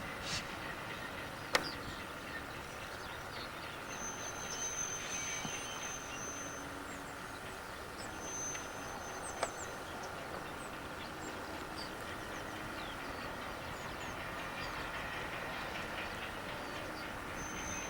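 V100 diesel-hydraulic shunting locomotive running steadily at a distance, with high thin tones coming and going and birds chirping. Two sharp clicks sound, one early and one about halfway through.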